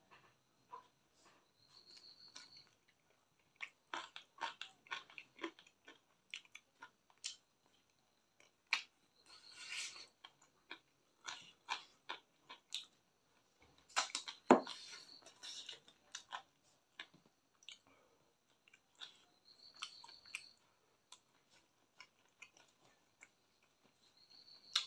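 Close-up eating sounds of chicken curry and rice eaten by hand: wet chewing and mouth clicks, irregular and broken by short pauses, the loudest click a little past halfway.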